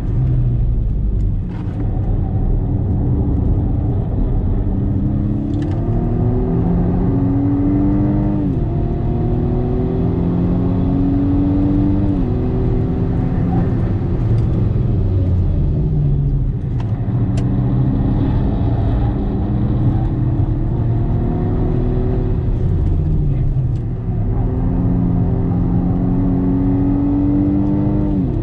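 BMW M135i F40's 2.0-litre turbocharged four-cylinder, heard from inside the cabin, pulling hard under full throttle. Its pitch climbs, then drops sharply at several upshifts, with brief lifts off the throttle in between.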